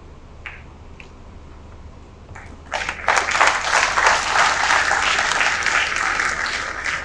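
Audience applauding in a hall: the clapping starts suddenly a little under three seconds in and keeps going.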